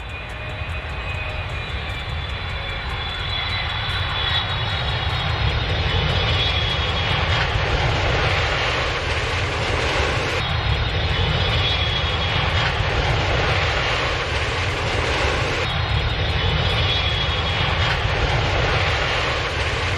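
Aircraft engine noise: a steady, dense rumble and hiss that grows louder over the first several seconds, then holds, with a faint high whine early on.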